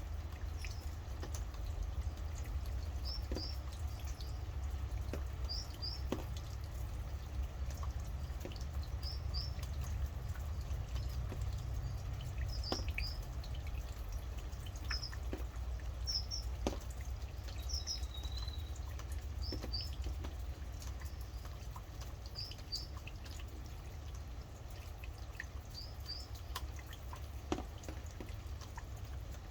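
Rain dripping, with scattered sharp drops over a steady low rumble, while a bird repeats a short high double chirp every couple of seconds.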